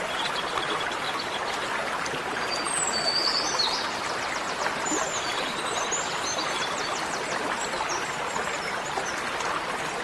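Steady rushing of running water, like a stream, with small birds chirping over it, most from about two and a half seconds in until near the end.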